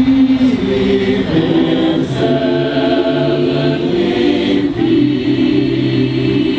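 Choir singing held chords, the harmony changing about two seconds in and again near five seconds.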